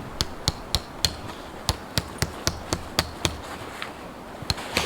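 Tent pegs being hammered into frozen ground: sharp, quick strikes, about four a second in runs, with a short pause after about a second and another near the end.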